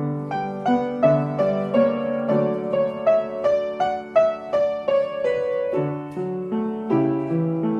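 Piano accompaniment for a ballet barre exercise: a gentle melody of evenly paced notes over a simple left-hand part.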